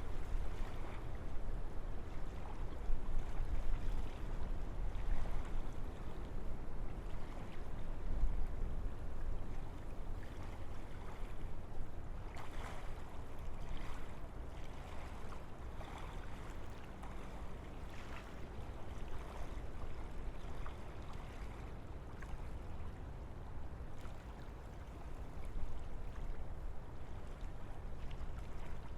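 Wind gusting through a forest: a low rumble that swells and eases, with soft rustling of leaves.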